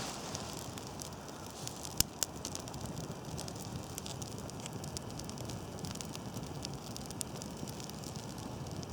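Small teepee campfire of birch bark and thin birch twigs crackling steadily, with scattered pops and one sharp pop about two seconds in.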